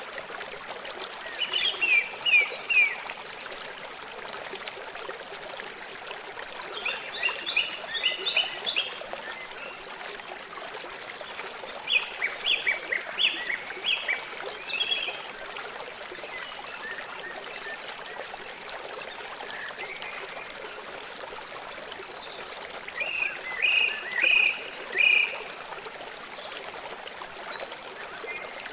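Forest stream flowing steadily, with a songbird singing four short phrases of quick, falling notes over the water.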